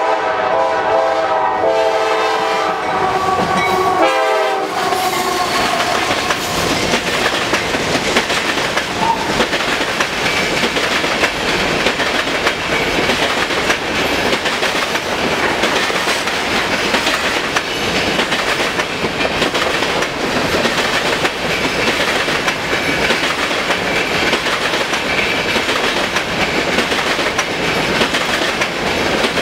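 Horn of a CSX GE AC44CW diesel locomotive sounding its chord in a few blasts over the first four seconds or so. A train of empty covered hopper cars then rolls past close by, with a steady, loud noise of wheels on rail that lasts to the end.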